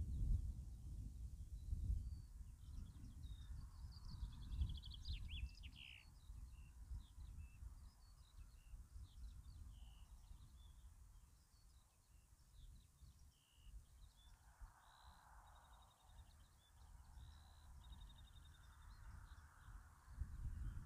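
Small songbirds chirping, with several quick trills, over a low rumble of wind on the microphone that is strongest in the first few seconds.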